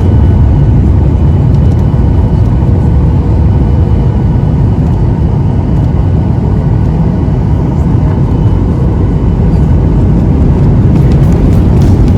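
Loud, steady low rumble of a Boeing 737-800 heard from inside the passenger cabin: engine and airframe noise with a few faint steady tones above it.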